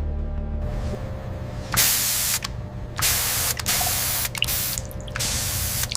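A spray nozzle misting water in four short hissing bursts, each about half a second to a second long, onto the leather to test its water-repellent finish.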